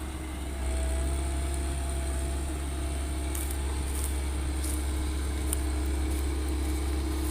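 Heavy diesel machinery running steadily, a constant low drone with a steady whine over it; a few faint sharp ticks come in after about three seconds.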